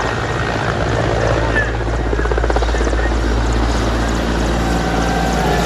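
Helicopter's rotors and turbine engine running at takeoff power: a steady, loud low drone with a rapid rotor chop.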